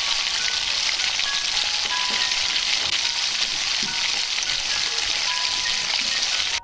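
Masala paste sizzling loudly in hot oil in a stainless steel kadai, a dense steady hiss as it is poured in and stirred with a spatula. The sizzle cuts off suddenly at the end.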